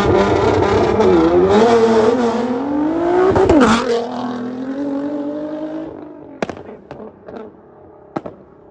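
Car engine revving hard, its pitch swinging up and down repeatedly, then settling lower and fading out. From about six seconds in come a few sharp, separate pops.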